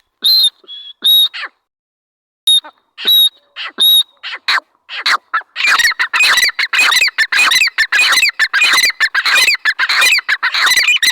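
Francolin (teetar) calling loudly. First come a few separate high notes, then from about five seconds in a fast, harsh run of repeated notes.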